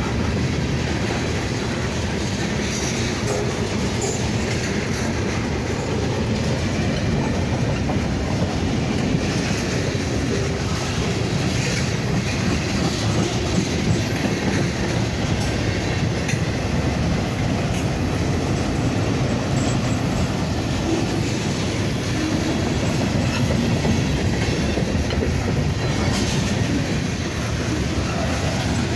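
Freight cars of a slow-moving mixed freight train rolling past, steel wheels clacking steadily over the rail joints, with occasional faint wheel squeal.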